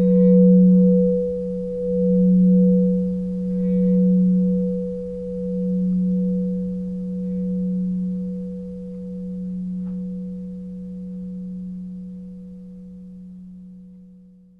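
Singing bowl ringing out, a low hum with a fainter higher tone above it, wavering in slow pulses as it fades away to nothing near the end. It is the bell that closes the meditation.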